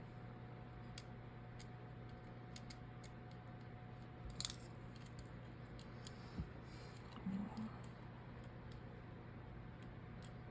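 Faint scattered clicks and light taps of small tools and phone parts being handled during a phone repair, over a steady low hum. There is a brief scrape about four and a half seconds in and a soft knock about two seconds later.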